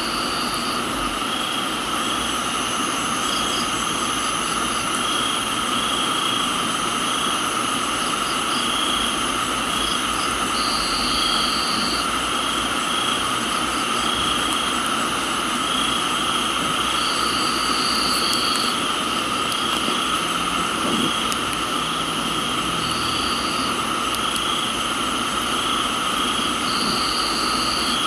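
Tropical garden ambience: a chorus of crickets and other insects trilling steadily over an even hiss of rain. One call pulses regularly in a steady rhythm, and a higher buzzing call about a second long recurs every few seconds.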